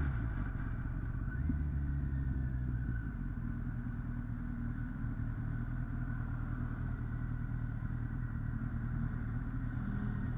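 2008 Kawasaki ZX-10R's 998 cc inline-four engine running at steady low revs, its note holding level after dropping off just before.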